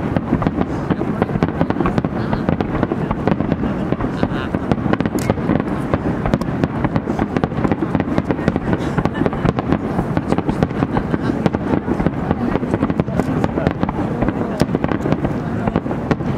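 Star mine fireworks barrage: aerial shells launched and bursting in rapid succession, a dense, unbroken string of many booms and cracks a second with a deep rumble underneath.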